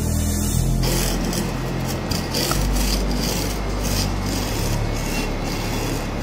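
A closing music cue fades out in the first second, then a hand file rasps on a metal piece in repeated back-and-forth strokes.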